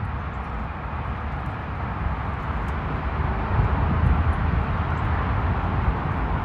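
Strong wind gusting against the microphone: an uneven low rumble under a steady rushing noise, a little louder from about three seconds in.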